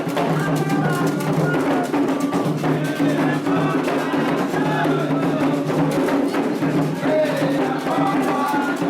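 Candomblé toque for Logun Edé: atabaque hand drums and a struck bell keep up a fast, steady rhythm while voices sing along.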